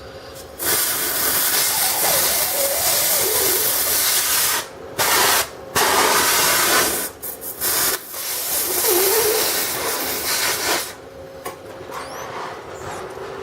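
Oxyhydrogen (HHO) torch gas jetting with a loud, steady hiss. It starts under a second in, cuts out briefly three times midway, and stops near the end.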